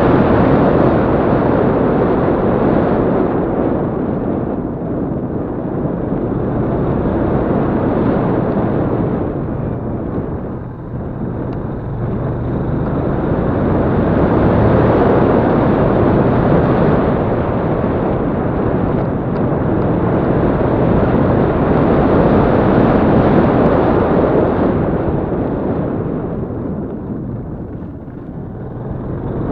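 Yamaha Crypton-X underbone motorcycle being ridden, its engine running under heavy wind rush on the microphone that swells and eases, dipping briefly about ten seconds in and again near the end.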